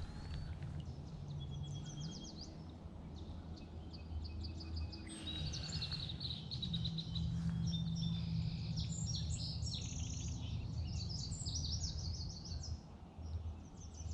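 Several songbirds singing and calling together, with rapid chirps and trills that grow busier about halfway through. A steady low hum runs underneath.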